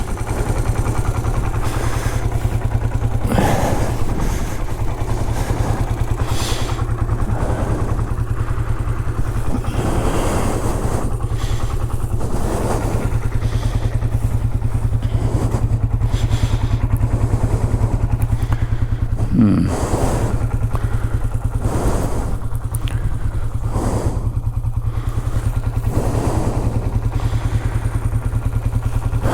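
Honda CL450's parallel-twin engine running at a steady idle, with scattered knocks and clatters. One clatter, about two-thirds of the way through, is louder than the rest.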